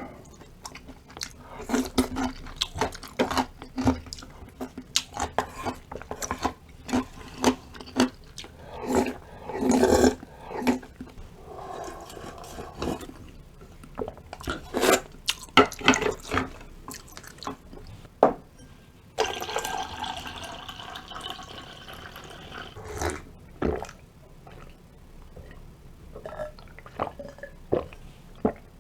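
Close-up eating sounds of a person eating yukgaejang: sharp clicks and knocks of a spoon and chopsticks on the bowl, chewing, and wet slurping, with a few seconds of steady liquid sound about twenty seconds in.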